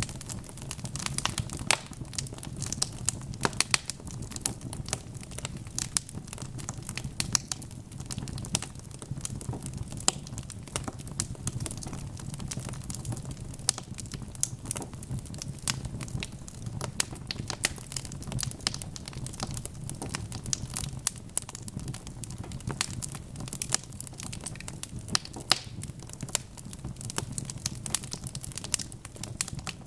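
Wood fire burning in a fireplace: a dense run of irregular sharp crackles and pops over a steady low rumble of the flames.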